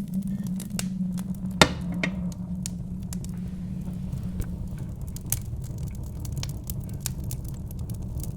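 Wood fire crackling with irregular sharp pops, over a steady low wind rumble; the loudest pop comes about one and a half seconds in.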